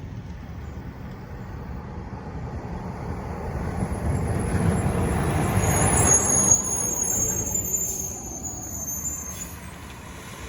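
Garbage truck driving past, its engine and tyres growing louder to a peak about six seconds in and then fading. A thin high squeal sounds from about six to nine seconds in.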